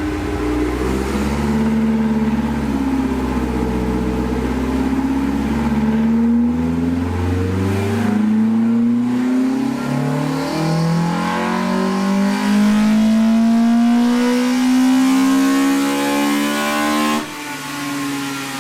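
Toyota 4A-GE twin-cam inline-four, built with a high-port head, 278 inlet cam, 52 mm throttles and a big header, running on a dyno. It holds fairly steady revs, then its pitch climbs steadily in a pull. Near the end the throttle shuts suddenly and the revs fall away.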